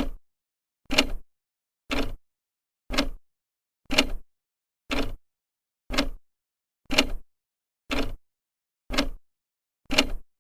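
Old clock ticking, its second hand stepping once a second in an even, steady rhythm of sharp ticks.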